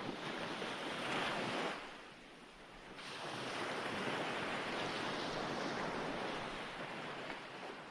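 Ocean waves washing on a shore. One wave swells about a second in and falls away to a lull around two to three seconds, then the surf builds again and stays steady.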